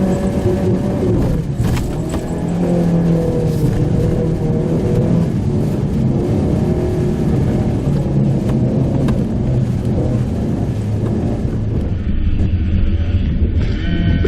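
Mitsubishi Pajero Mini driving on a rough forest road, heard from inside the car: its small engine runs with its pitch wavering up and down with the throttle, and a few sharp knocks come from the rough road surface. Near the end the sound changes and steady higher tones come in.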